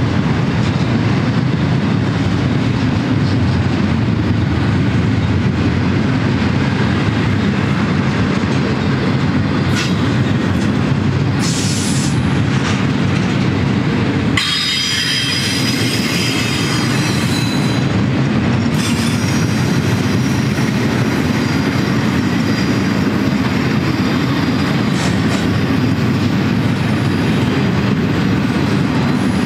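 Double-stack intermodal train's well cars rolling past: a steady low rumble of steel wheels on rail. A brief high wheel squeal comes a little before halfway, and a longer one of about four seconds just after halfway, as the wheels work through the curve.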